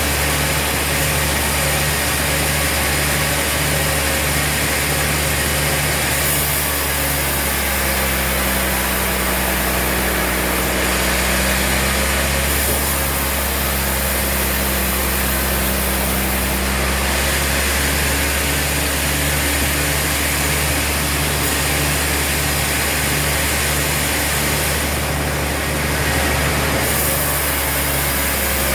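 Sawmill machinery running steadily: a continuous motor drone with a low pulsing hum about twice a second, and a high hiss that swells several times.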